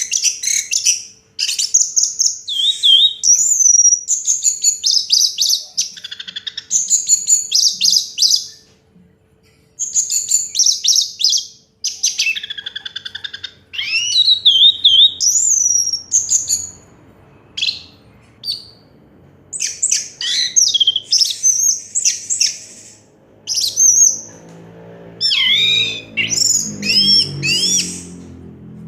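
Orange-headed thrush (anis merah) singing a long, varied song: rapid trills, quick whistled slurs and chattering notes in phrases broken by short pauses. A faint steady hum runs underneath.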